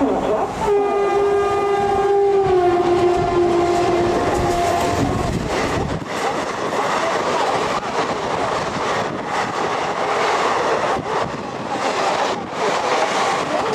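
WAP-7 electric locomotive blowing one long horn blast of about four seconds as the train approaches at speed, the pitch dropping partway through. After a cut, passenger coaches rush past close by, wheels clattering rapidly over the rail joints.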